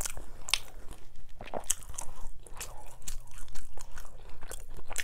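A person chewing a mouthful of food close to the microphone, with irregular short wet clicks and smacks, several a second.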